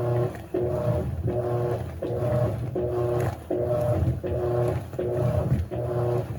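Electrolux LAC16 16 kg top-loading washing machine agitating: its motor hums in short, even strokes, reversing with a brief break roughly every three-quarters of a second in a steady rhythm.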